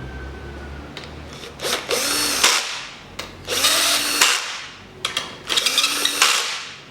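Power drill-driver running bolts in, three short runs of the motor whining up and stopping, drawing the oil pump's bolts down on an engine block.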